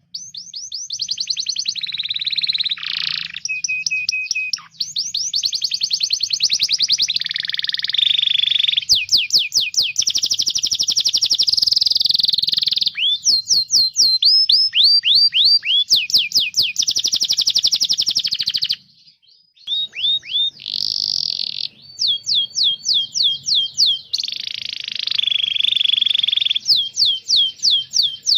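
Domestic canary singing a fast song of rolling trills and rapid repeated chirps, with runs of quick downward-sweeping whistled notes and a brief pause about two-thirds of the way through.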